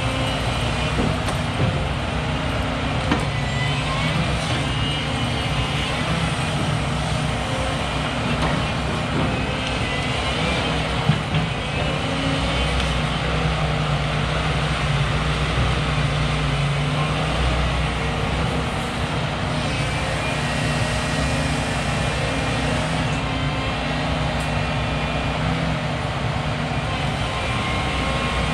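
Logging truck's diesel engine running steadily with road noise as the truck drives, with one short sharp knock about eleven seconds in.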